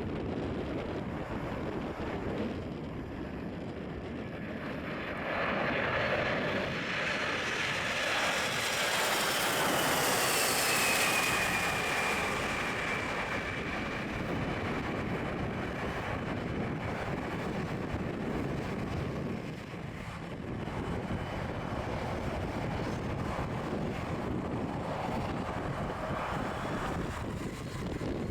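Boeing 747-400 jet engines passing by on landing: a steady rumble swells about five seconds in, peaks near the middle with a high whine falling in pitch, then settles back to a steady rumble.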